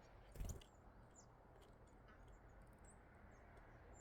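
Near silence with a few faint, high, short bird chirps, and a brief soft bump about half a second in.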